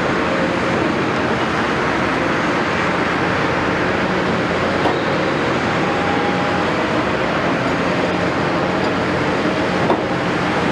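Caterpillar 329E excavator's diesel engine running steadily with a dense mechanical din, a brief thin whine about halfway through and a sharp knock near the end.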